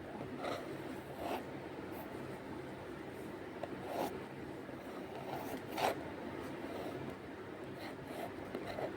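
A drawing tool scratching and rubbing on paper in short strokes, over a steady faint hiss.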